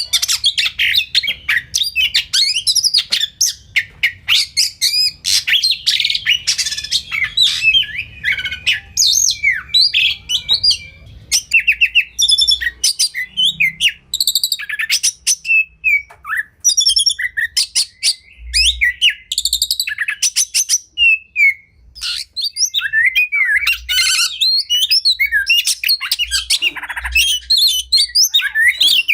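Oriental magpie-robin (kacer) singing a fast, varied song of chirps, whistles and rapid trilled runs, the notes coming thick and almost without pause.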